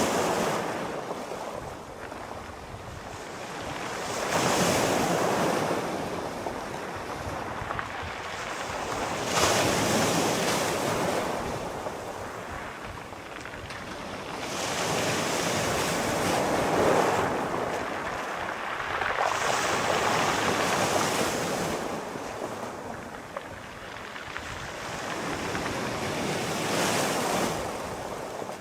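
Sea waves breaking and washing on the shore, rising and falling in a swell every four to five seconds, with a steady wash of surf in between.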